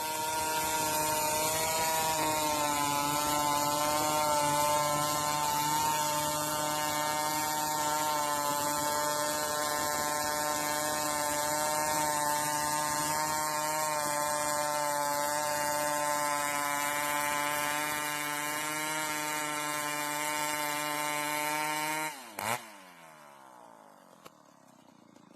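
Chainsaw running at a steady high speed, its pitch holding level. It cuts off abruptly about 22 seconds in, with a brief sweeping sound as it stops.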